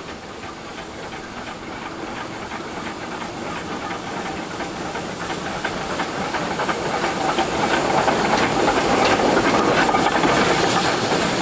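Steam locomotive No. 4 of the Achensee cog railway hissing steam as it moves off, the sound growing steadily louder.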